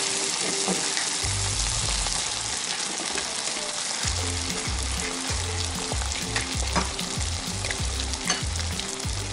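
Garlic scapes, tomato and eggs sizzling as they fry in hot oil in a frying pan, with a few short sharp taps as more eggs are cracked and dropped in.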